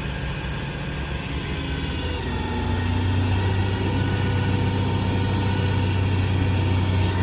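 Ram 5500's Cummins turbo-diesel straight-six running at idle with a steady low hum, growing louder about two and a half seconds in and then holding steady.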